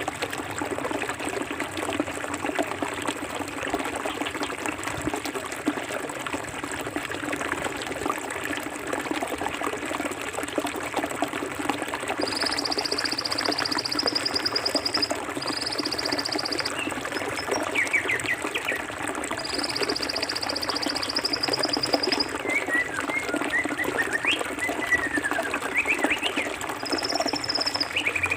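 Forest stream water running steadily over rocks. Birds chirp in the second half, and a high buzzing trill sounds three times, for a few seconds each, from a little before halfway.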